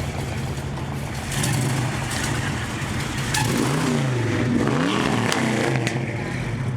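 Car engine running with a steady low rumble; about halfway through its pitch dips and climbs again a couple of times.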